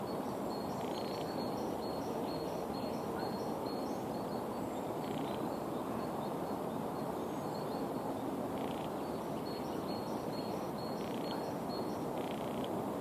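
A songbird singing runs of short, evenly repeated high notes, once near the start and again later, over a steady low outdoor rush.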